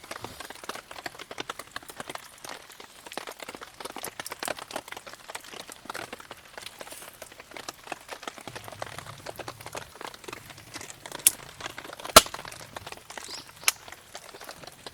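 Wood campfire crackling with many small snaps, and three sharp, loud pops in the second half, from damp firewood burning.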